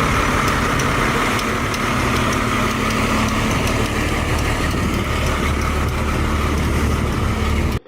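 A car engine idling steadily with a deep, even low note under broad noise. It cuts off suddenly near the end.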